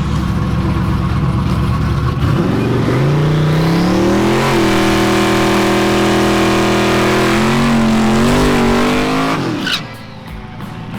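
Turbocharged drag cars at full throttle on a race: a heavy rumble, then an engine note that climbs about two seconds in, holds high and rises again. Near the end the throttle is lifted, and the sound drops off sharply with a short high chirp.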